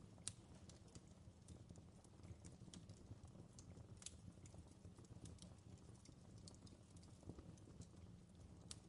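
Fire in a fireplace crackling faintly: irregular sharp pops and snaps over a low steady rumble, the strongest pop just after the start.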